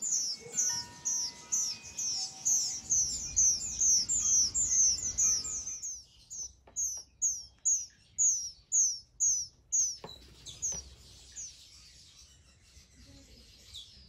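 A bird chirping steadily: a long series of short, high, down-slurred chirps, about three a second, slowing after about six seconds and fading out near the end. Soft background music plays under the first half.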